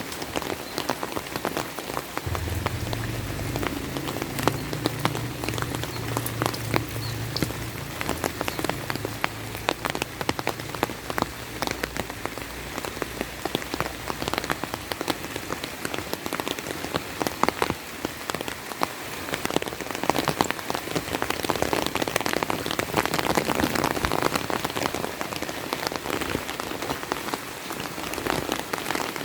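Steady rain falling, with many separate drops pattering sharply on an umbrella close by. A low rumble sounds from about two seconds in and fades away by about ten seconds.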